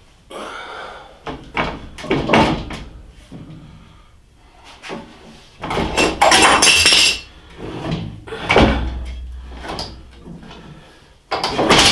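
Lathe under-drive assembly, with its motor attached, being shifted and slid out of the cabinet base: irregular scraping, knocks and clatter of metal against wood. The longest and loudest scrape comes about six seconds in.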